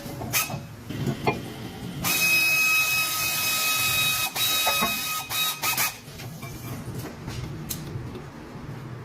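A small motor or power tool whirring with a hiss for about four seconds, with sharp metallic clicks and knocks of tools before and after it.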